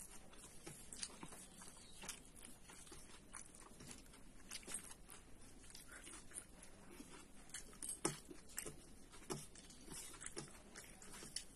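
Faint eating noises: chewing and small irregular clicks and ticks, a few of them a little louder, such as one about eight seconds in.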